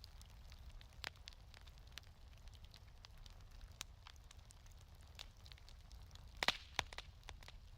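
Wood fire crackling in a fireplace: irregular sharp pops and snaps over a steady low rumble, with two louder pops in quick succession near the end.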